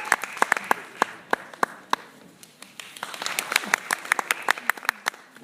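A small audience clapping, the separate hand claps easy to pick out; the clapping thins out about two seconds in, then picks up again before fading.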